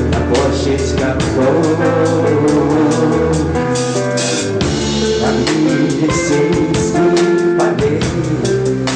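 Rock band playing an instrumental passage live, with a drum kit keeping a steady beat under guitar and sustained low bass notes.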